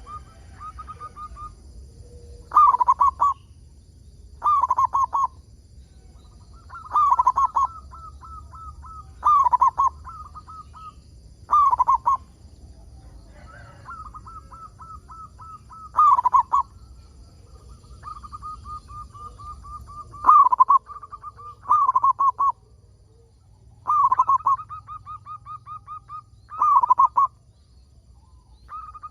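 Zebra dove (perkutut) cooing vigorously. It repeats phrases of rapid staccato coos, each ending in a louder falling burst, about every two seconds.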